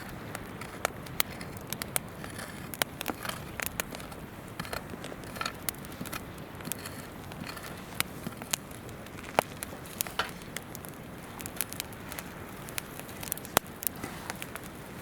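Wood campfire crackling, with many irregular sharp pops and snaps over the steady rush of a river.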